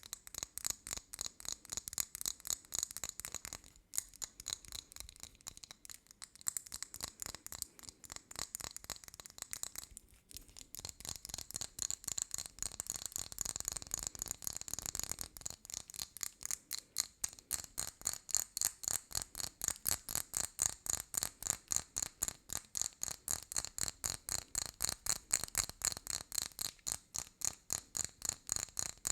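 Fast ASMR tapping: quick, crisp taps on a hard object, roughly three or four a second, with brief lulls early on and near the middle.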